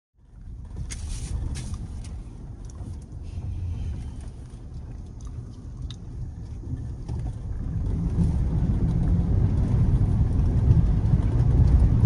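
Toyota RAV4 4x4 driving over a rough off-road track: a low rumble of engine and tyres with scattered knocks early on, getting louder about eight seconds in.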